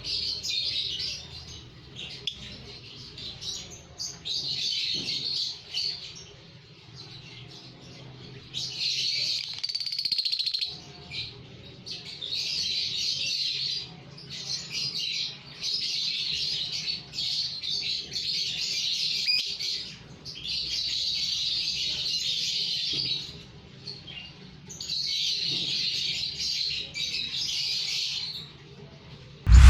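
Lovebirds chattering in repeated shrill bouts of one to two seconds with short pauses between them. A single sharp click sounds at the very end.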